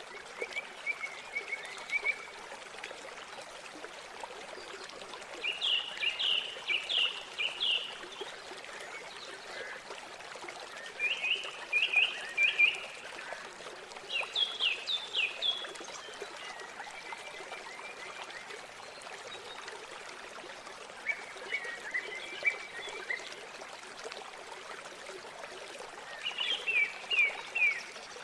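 Steady rush of flowing river water, with a small bird singing short phrases of quick, high notes every few seconds.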